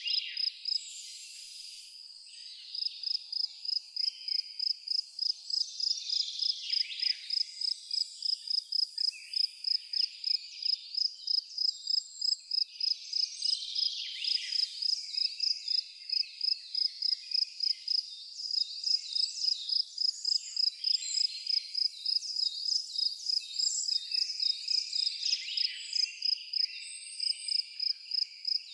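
A cricket chirping in a steady, even rhythm at one high pitch, about three chirps a second, with a pause of about two seconds near the start. Birds sing scattered, varied phrases over it.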